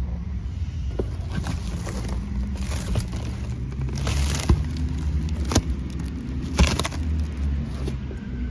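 Truck engine idling with a steady low rumble, with a few sharp knocks or clicks over it around the middle.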